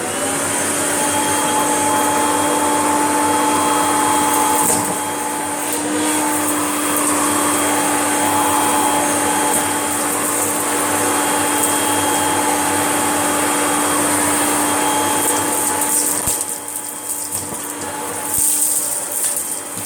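Kirby upright vacuum cleaner switched on and running with a steady whining hum while it picks up leftover dirt from the floor. About 16 seconds in the sound becomes uneven and a little quieter, with brief surges near the end.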